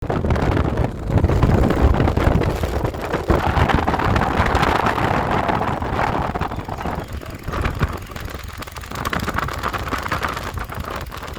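Wind buffeting the microphone on a moving motorcycle, a gusty rumble with vehicle noise beneath, louder in the first half.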